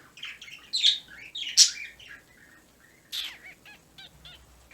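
Pet birds calling: a few loud squawks, then a quick run of short chirps.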